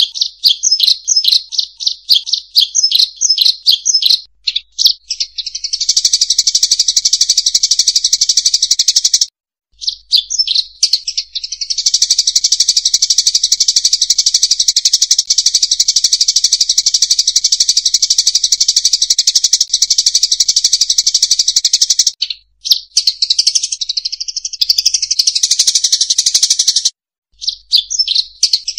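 A lure recording of rice-field munias (emprit) calling: loud, high-pitched, dense chattering of many birds. It shifts between quick separate chirps and a near-continuous buzzing chorus. It cuts off abruptly into short silences a few times, where the recording loops or is edited.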